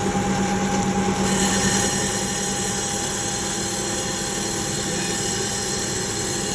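A tool working the rough edge of a motorcycle wheel rim to smooth it: a steady, even hiss that starts abruptly about a second in, over a constant low hum.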